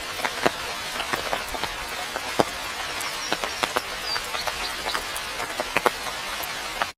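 Steady rain falling, with many separate drops striking close by as sharp, irregular ticks. The sound drops out abruptly for a moment near the end.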